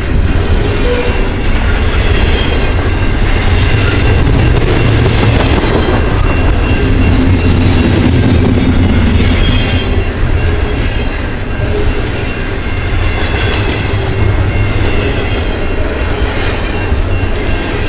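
Intermodal freight train cars rolling past on steel rails: a loud, steady wheel-and-rail rumble with clickety-clack over the rail joints and a faint squeal from the wheels.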